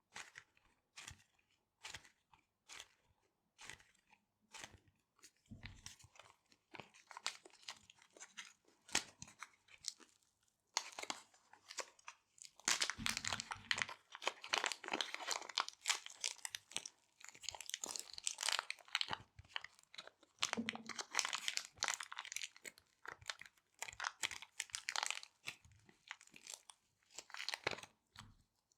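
Small resealable plastic bags being handled, crinkling and crackling, with separate sharp clicks for the first few seconds and denser, steadier crinkling about halfway through.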